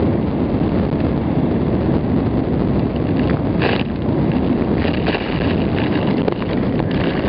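Strong wind buffeting the microphone and water rushing past a sailing yacht under way, a steady rough noise with a few brief splashes or gusts, the clearest about halfway through.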